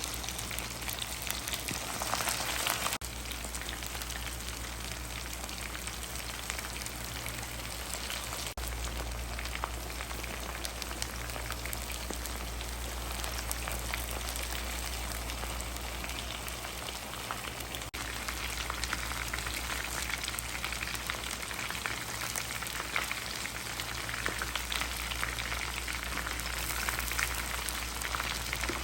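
Chicken pieces deep-frying in hot oil: a steady, dense crackle and sizzle.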